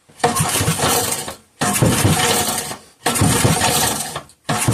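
5 hp Briggs and Stratton engine pulled over four times on its recoil starter with the choke on, each pull about a second of rattling cranking. It does not catch with no extra fuel fed to it.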